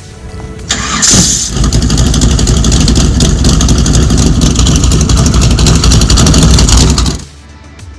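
A loud vehicle engine revving and running hard, with a rapid even firing beat. It starts about a second in and cuts off suddenly about seven seconds in.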